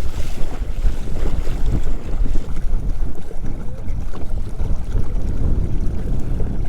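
Strong wind buffeting the microphone, with choppy water splashing against the kayak's hull as it heads into the waves.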